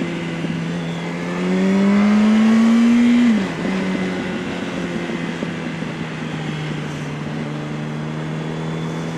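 Yamaha R1's inline-four engine running on the road, pulling up in revs with a rising tone for about two seconds from about a second in, then dropping sharply as the throttle is closed or a gear is changed, and running steadily after that.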